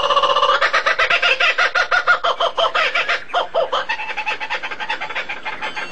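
A bird calling in a fast run of harsh, pitched notes, about ten a second, growing weaker after about four seconds.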